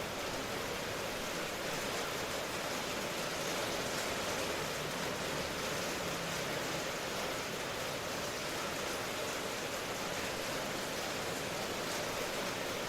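Steady, heavy rain: a continuous even hiss, with no separate drops or thunder standing out.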